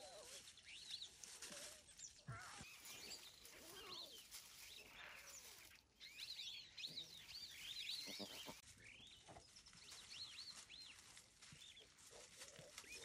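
Faint bush ambience with many short, high chirps from small birds scattered throughout, and a few fainter lower calls and rustles.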